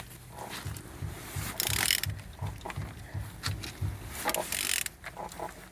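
Renault K9K 1.5 dCi diesel engine being turned over by hand, the crankshaft rotating with a regular low pulsing of about three beats a second, broken by two bursts of rasping clicks from the wrench. It turns over freely.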